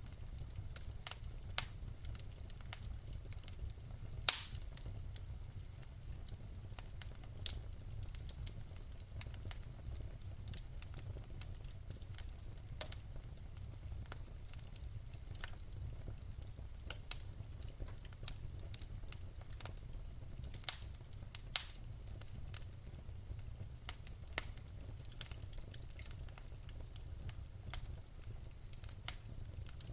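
Wood fire burning in a fireplace: a steady low rumble of the flames with scattered sharp crackles and pops of burning logs, one louder pop about four seconds in.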